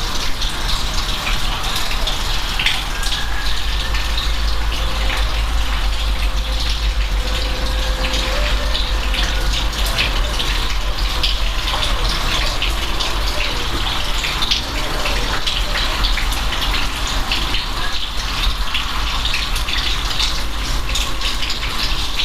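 Steady rain falling: a dense, even hiss made up of many small drop ticks, with a low rumble underneath.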